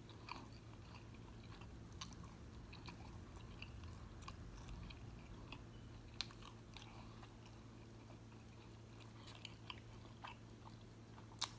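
Faint chewing of a steak quesadilla bite with the mouth closed, with scattered small clicks and a sharper one about six seconds in, over a steady low hum.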